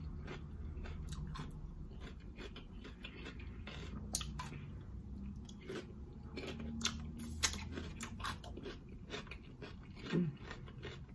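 Close-miked chewing and crunching of crisp cucumber, with many sharp wet mouth clicks and smacks over a steady low hum.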